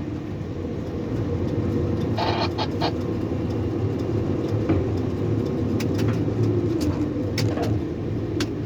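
Steady low drone of a tower crane's machinery heard from the operator's cab while a load is being lowered, with a brief higher burst about two seconds in.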